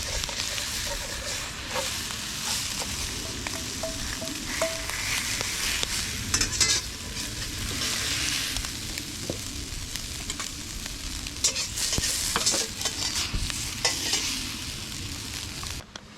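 Wood campfire crackling and popping steadily, with irregular sharp snaps and a few brief high whistles about four seconds in. The sound drops away suddenly at the very end.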